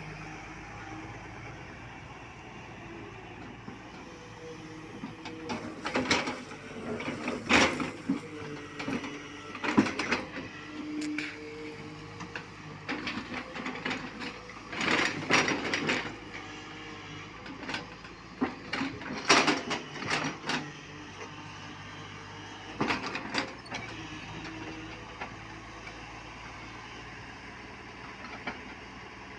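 Tata Hitachi Super 210 excavator's diesel engine running steadily, with a series of loud clattering knocks and crashes from the bucket and its load as it works loading a truck. The knocks are scattered through the middle and give way to the steady engine near the end.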